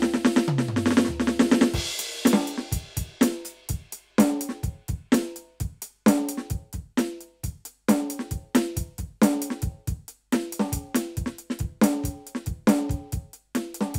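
Roland TD-17KVX V-Drums electronic drum kit being played: a fast tom fill with falling-pitched toms, a cymbal crash about two seconds in, then a steady groove of kick, snare and hi-hat.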